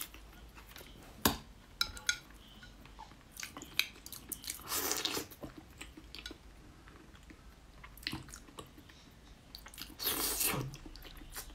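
Close-up wet chewing and biting of Northeast Chinese blood sausage in its soft pig-intestine casing, with scattered small mouth clicks. A single sharp snip of kitchen scissors cutting the sausage about a second in, and two louder bursts of mouth noise near the middle and near the end as she bites in.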